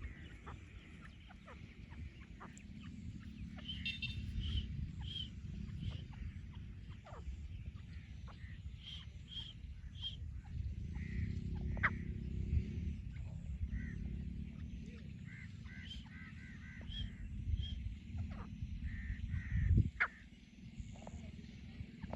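Francolin (teetar) calling: short repeated notes in quick runs, over a steady low rumble. A sharp knock near the end is the loudest sound.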